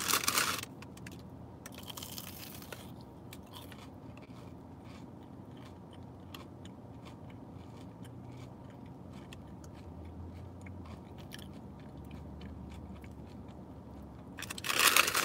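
Close-up chewing and crunching of a fried churro, many small crisp crackles as the crust breaks between the teeth.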